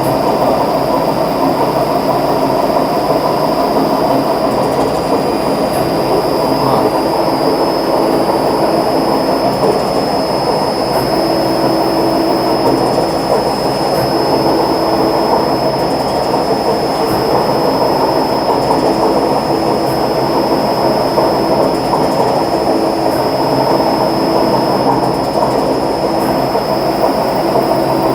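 Hydraulic test bench pump running steadily, pushing power-steering fluid through a crimped pressure hose under test pressure, with a constant high whine over the pump noise.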